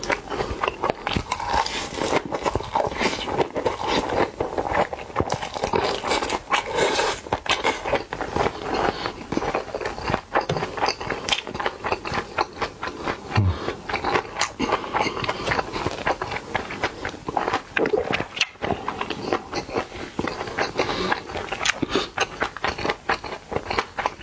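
Close-miked chewing of a mouthful of Korean mixed rice (bibimbap) wrapped in seaweed: a dense, irregular stream of wet mouth clicks and crackles.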